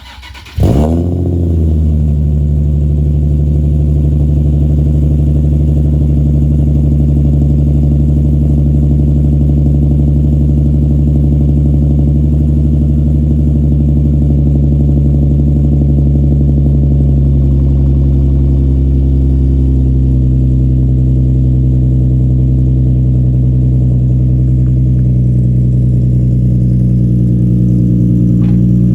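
Nissan 350Z's 3.5-litre V6 starting about half a second in, its revs flaring and quickly falling away, then idling steadily through a straight-through exhaust with a titanium back box.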